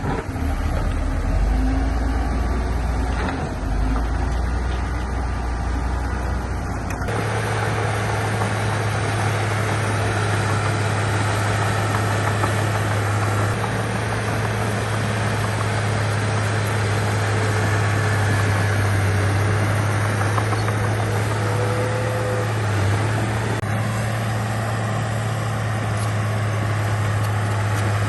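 Heavy diesel engines of construction machinery running continuously. About seven seconds in, the sound changes abruptly from a deep rumble to a steadier engine hum.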